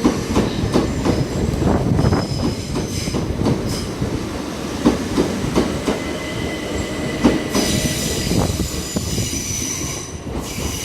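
Southern Class 377 Electrostar electric multiple unit passing through the station, its wheels clicking over the rail joints under a steady rumble. Over the last few seconds a steady high-pitched squeal sets in.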